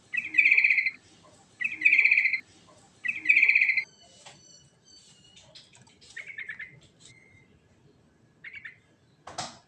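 Yellow-vented bulbul (trucukan) singing: three loud bubbly phrases about a second and a half apart, then softer scattered chirps and whistles, with a short harsh sound near the end.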